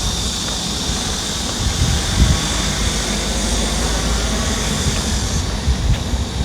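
Steady low rumble of a distant engine, with a faint steady high tone above it.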